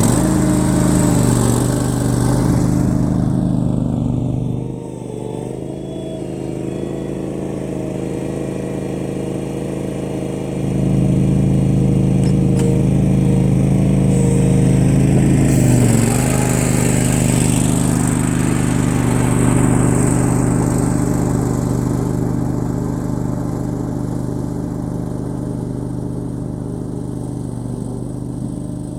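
John Deere greens mower running and cutting grass, its engine and cutting reels making a steady drone with a high hiss on top. It drops back about five seconds in, comes close and louder from about eleven seconds, then fades slowly away.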